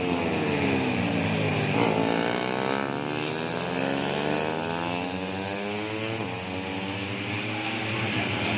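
150cc four-stroke underbone race motorcycles running hard. The engine pitch drops for about the first two seconds, then climbs steadily as the bikes accelerate and levels off near the end.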